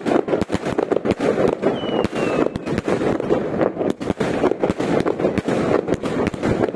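Fireworks and firecrackers going off in a dense, continuous crackle of bangs, many a second without a break. A short falling whistle comes about two seconds in.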